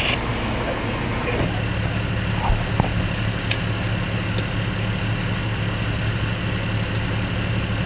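A vehicle engine idling steadily, with a few short clicks in the first half.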